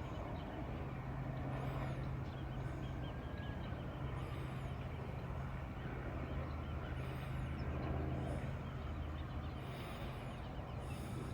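Small birds giving brief high chirps every second or two over a steady low hum.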